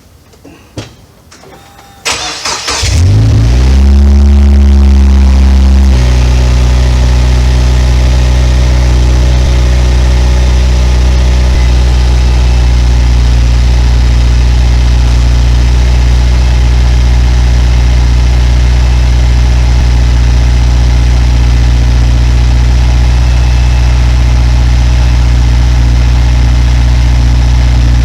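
Subaru WRX S4's turbocharged flat-four starting and running through an STI Performance muffler: a brief crank about two seconds in, then it catches and flares up. About six seconds in it drops to a steady, deep warm-up idle.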